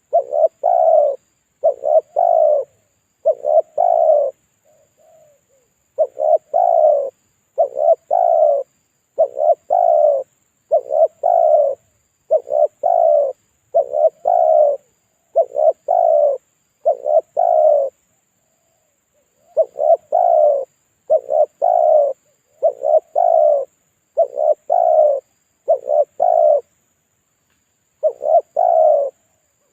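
Spotted dove cooing, used as a lure call: short two- or three-note coo phrases repeated about once every second or so, with a few pauses of a second or two between runs.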